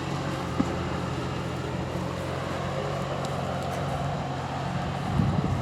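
Diesel truck engine idling steadily with a low, even hum; it gets somewhat louder and rougher near the end.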